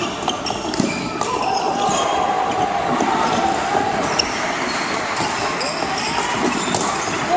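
Badminton play in a large, echoing sports hall: sharp knocks of rackets striking the shuttlecock and footfalls, with short, high-pitched squeaks of court shoes on the floor, over a background of voices.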